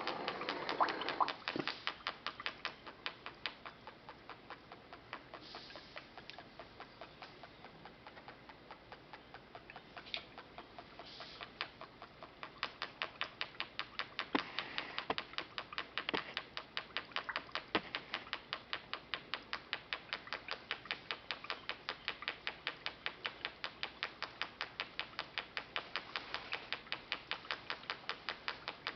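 Putt-putt (pop-pop) boat motor popping in a rapid, even train of sharp clicks, several a second, as steam pulses push water in and out of its tube at the water surface, making bubbles. A louder, steadier sound fills the first second or so, and the pops grow stronger past the middle.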